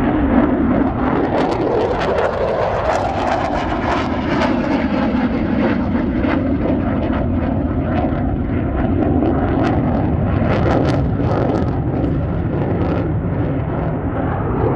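Military fighter jet engines at high power on takeoff, loud and continuous, with a ragged crackle through the noise.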